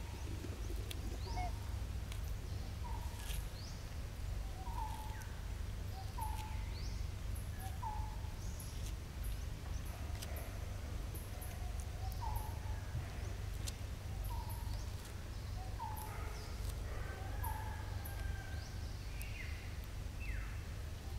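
Outdoor woodland ambience: a bird repeats a short mid-pitched call about once a second, with other birds chirping higher. A steady low rumble runs underneath.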